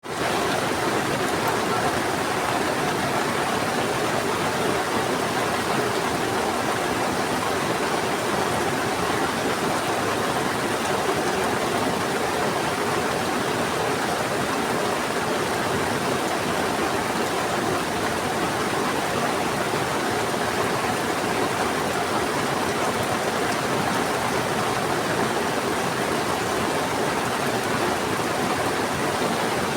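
Heavy rain falling together with a fast-flowing river: a steady, even rush of water with no breaks.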